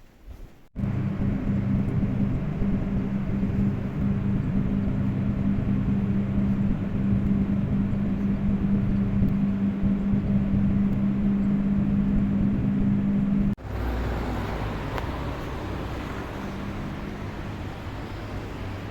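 Steady running noise of a road vehicle with a constant low hum. About thirteen seconds in it cuts abruptly to a different, quieter steady traffic noise.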